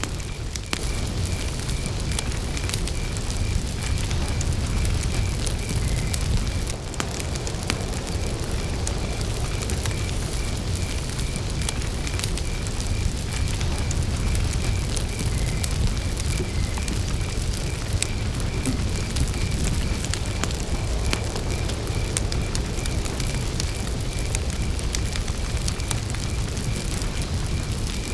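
Campfire burning, with a steady low rumble of the flames and scattered sharp crackles and pops of burning wood. A cricket chirps steadily in an even pulsing rhythm behind it.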